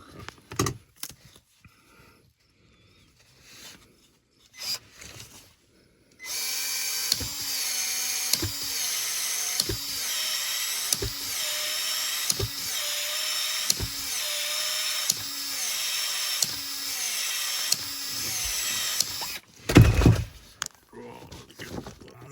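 Powered PEX expansion tool running for about thirteen seconds, its motor whine dipping with a regular click a little more than once a second as the head expands the pipe end for a cold-expansion fitting. A loud thump comes near the end.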